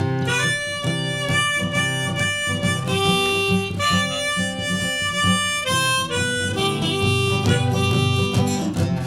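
Harmonica playing held and changing melody notes over strummed acoustic guitar: the instrumental intro of a song before the singing comes in.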